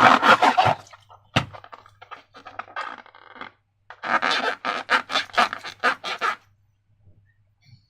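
Sticky slime squelching and crackling in two long bursts of rapid little pops, with a single sharp click a little over a second in and softer crackling between.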